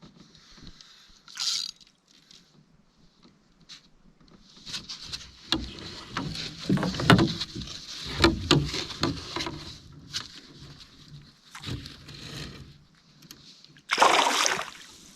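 Water splashing and sloshing beside a canoe as a hooked bass fights at the surface and is brought in. The splashing comes in uneven spells, with sharp knocks mixed in, and ends in a loud splash near the end.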